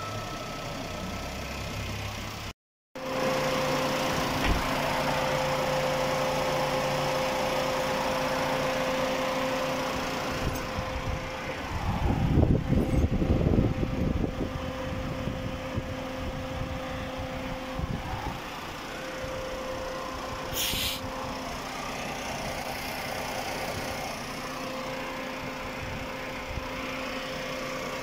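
Suzuki Alto 660cc three-cylinder engine idling steadily with the air conditioning switched on while the system is charged with refrigerant. A louder rumbling noise comes in briefly about twelve seconds in.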